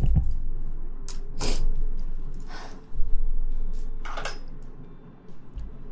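Rustling and brushing right against the microphone: short hissy scrapes, with two low thumps from the mic being handled, near the start and about three seconds in.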